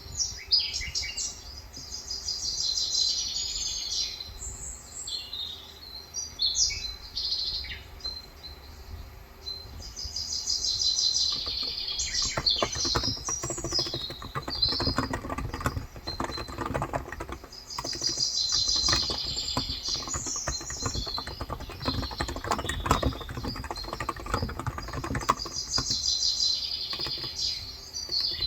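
Birds chirping and trilling in repeated bouts, high-pitched. Through the middle stretch, fast typing on a Cox Endeavour electrostatic-capacitive (Topre-style) tenkeyless keyboard with 35 g switches: a dense run of soft key clacks.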